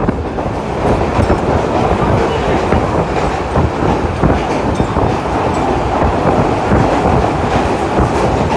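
Train running through a station at speed without stopping: a loud steady rush with the wheels clattering over the rail joints.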